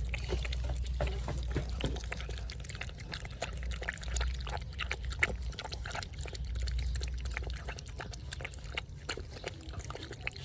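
Puppies eating soft food, a steady run of quick wet smacking and lapping clicks, with a low hum underneath.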